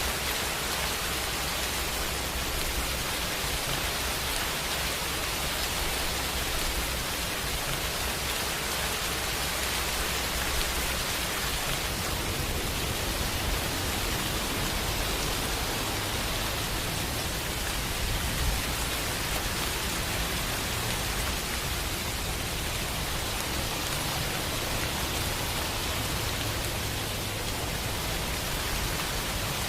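Steady rain falling, an even hiss, with a low rumble underneath that grows stronger about twelve seconds in.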